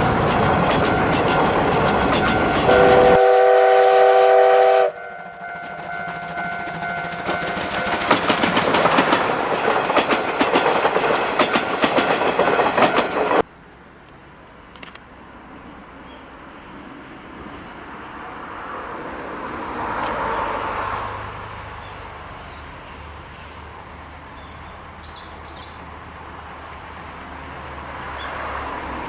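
C12 66 steam locomotive running loud and close, with its whistle sounding once for about two seconds a few seconds in. About halfway through, the sound cuts abruptly to a much quieter background.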